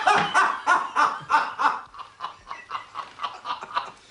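A man laughing heartily in a run of short pitched bursts. After about two seconds they turn quicker and fainter, tailing off into snickers.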